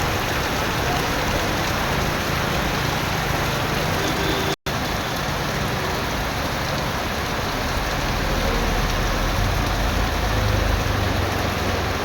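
Heavy rain falling, a steady dense hiss, broken by a sudden split-second dropout to silence about four and a half seconds in. A low rumble swells under the rain toward the end.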